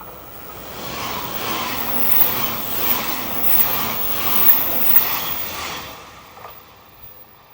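A train passing on the rails: wheel and rail noise swells up over a second or so, stays loud with a rhythmic clatter for a few seconds, then fades away.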